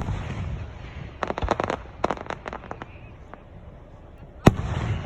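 Aerial fireworks going off: a loud bang right at the start, then two runs of rapid crackling pops over the next couple of seconds. A second loud bang about four and a half seconds in trails off in a low rumble.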